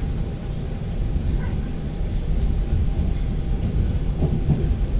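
Steady low rumble of an ŁKA class 36WED electric multiple unit, heard from inside the carriage.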